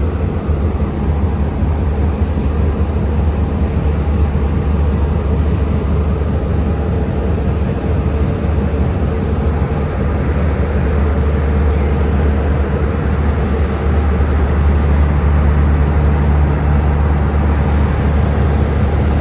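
Diesel train engine running steadily at the station, a loud, even low drone with a steady hum that holds throughout.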